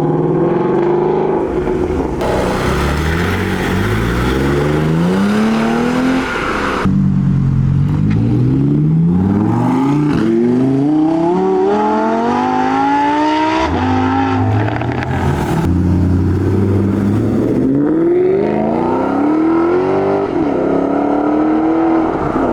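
Performance car engines accelerating hard away, the pitch climbing repeatedly and dropping back at each gear change.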